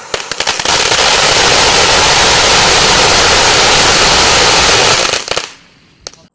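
Killer Taco consumer firework fountain going off in a loud, dense crackle: a few sharp pops at the start, then about four seconds of continuous crackling that dies away, with one last pop near the end.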